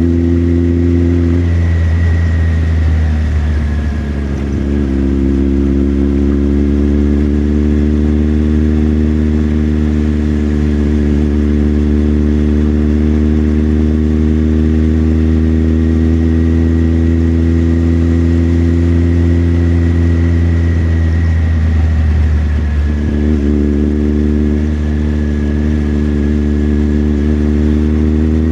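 Motorcycle engine running steadily at cruising speed, its note holding level. Twice, once about two seconds in and again about three-quarters of the way through, the note briefly breaks and settles at a new pitch, as with a throttle change or gear shift.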